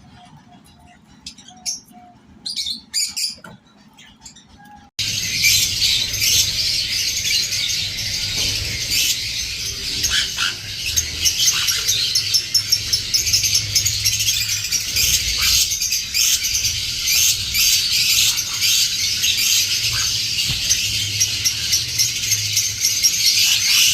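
Peach-faced lovebirds chirping. A few scattered chirps come first; then, about five seconds in, there is a sudden switch to loud, dense, continuous chattering from many birds at once.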